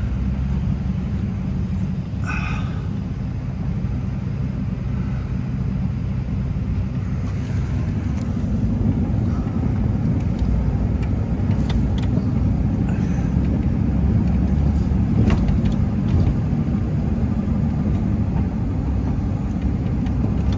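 Dodge pickup truck engine running with a steady low rumble that swells a little partway through.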